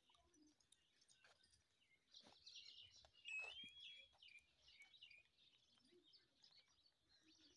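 Faint bird chirping over near silence, busiest between about two and five seconds in, with one short call that rises and falls in pitch. A few faint clicks are also heard.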